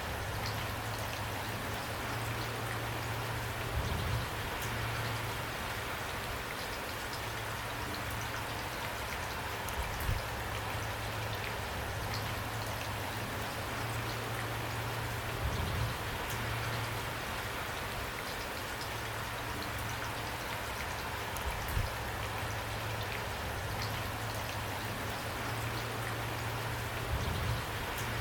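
Steady rain falling, an even hiss of drops, with a louder low drip or knock every five or six seconds.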